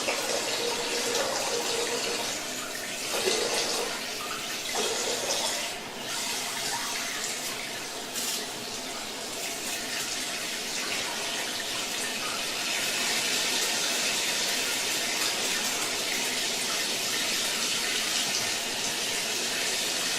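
Water jetting from a cleaning machine's short-nozzle spray gun set to a half-mist spray: a steady hiss of spraying water that shifts a little in level and grows somewhat louder in the second half.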